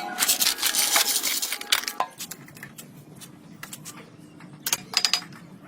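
Rapid clinking and scraping of metal on metal, dense for the first two seconds, then a few sharp clinks about five seconds in.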